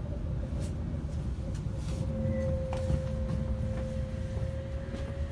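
Electric train running, heard from inside the carriage: a steady low rumble, with a steady whine that grows stronger about two seconds in, and a few light clicks.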